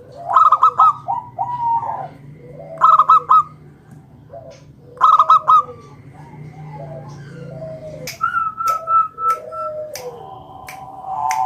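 Zebra dove (perkutut) cooing, loud phrases of quick staccato notes, each ending in lower gliding coos, repeated about every two and a half seconds. The phrases grow fainter later, and a run of sharp clicks comes in near the end.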